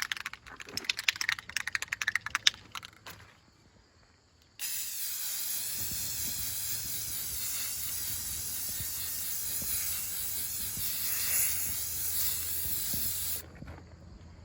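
Aerosol spray paint can rattling in a quick run of clicks as it is shaken, then, after a short pause, spraying in one steady hiss for about nine seconds before cutting off.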